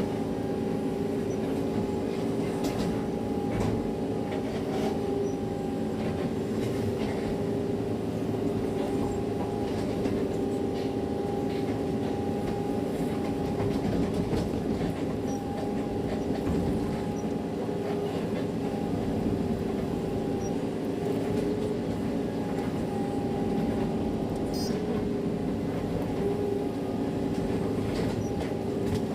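Excavator's diesel engine and hydraulics running steadily while skidding logs: a continuous low rumble with a held tone over it.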